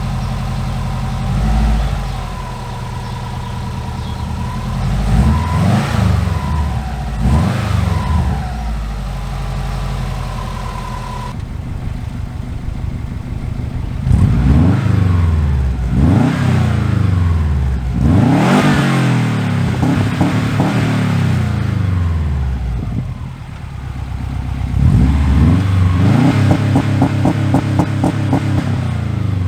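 Subaru Legacy GT Spec B's turbocharged flat-four running through a newly fitted Magnaflow cat-back exhaust, revved repeatedly: each rev rises and falls back to a steady idle. The engine is given gas to show off the new, louder exhaust note.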